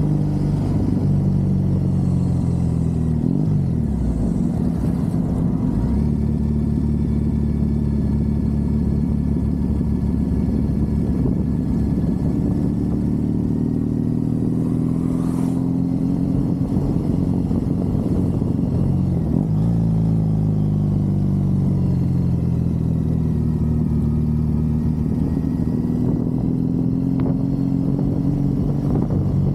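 Triumph Bonneville parallel-twin engine running under way on the road, heard from the rider's seat. Its pitch climbs and falls with the throttle, with sharp drops around four seconds and twenty seconds in.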